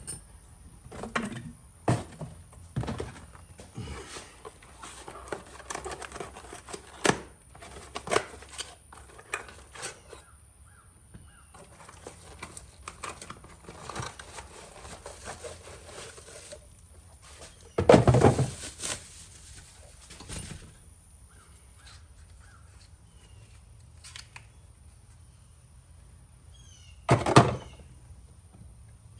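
Scattered clicks and knocks of hardware and tools being handled, then two loud bursts of harsh calls, one about two-thirds of the way in and one near the end.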